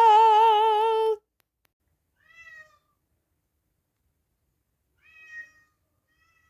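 A held sung note with a wavering vibrato cuts off about a second in. Then a cat meows faintly twice, short calls about two and a half seconds apart.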